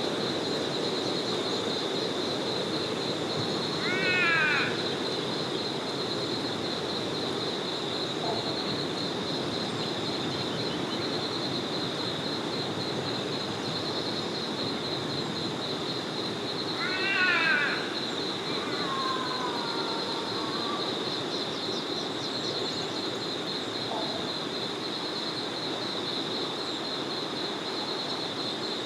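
Small forest river flowing steadily under a continuous high, rapidly pulsing trill. A bird gives two loud, harsh calls, about four seconds in and just past the middle, followed by a softer falling call.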